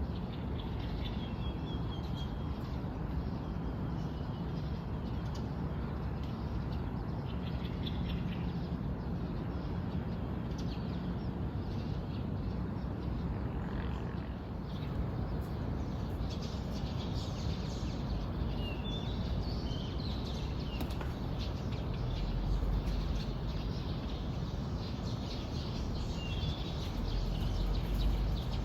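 Songbirds chirping and calling in short, scattered phrases over a steady low background rumble that grows louder near the end.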